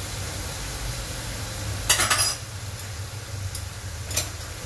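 Diced chicken frying with a steady sizzle in an aluminium wok. A short, loud metal clatter comes about two seconds in, with a couple of faint ticks after it.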